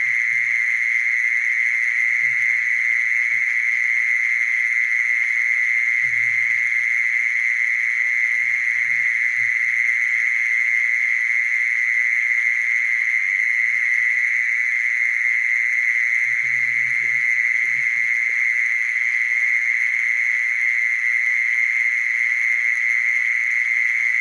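Mole cricket singing one continuous, steady, high-pitched trill.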